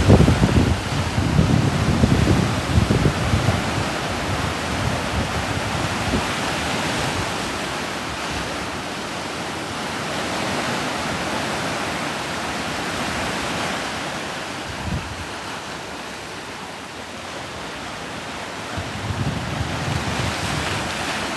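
Boeing 737-800 airliner's CFM56-7B turbofan engines heard as a steady broad jet rush as it passes overhead, slowly fading before swelling again near the end. Wind buffets the microphone with low rumbles during the first few seconds and again near the end.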